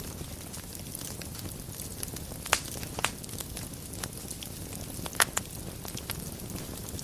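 Wood fire burning in a fireplace: a steady low rumble with scattered sharp crackles and pops, the loudest about two and a half, three and five and a quarter seconds in.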